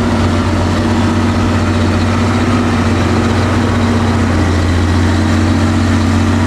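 Truck engine running steadily at low speed with a constant low hum that does not rise or fall.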